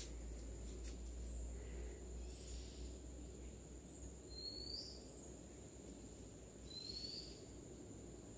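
Quiet room tone with a steady low hum, and a few faint short rising chirps of a small bird.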